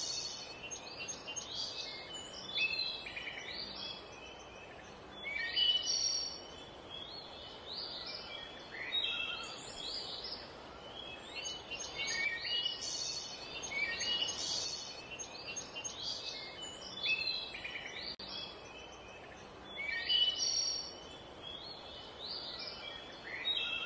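Several birds chirping and singing, their short, high calls overlapping one another over a faint steady hiss.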